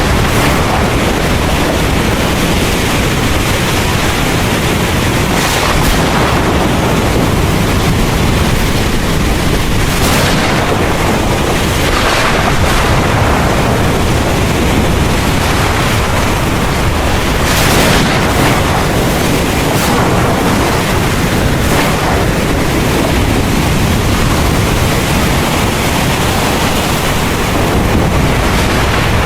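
Heavy rain pouring steadily, with a deep rumble of thunder underneath and a few brief sharper bursts, the strongest about two-thirds of the way through.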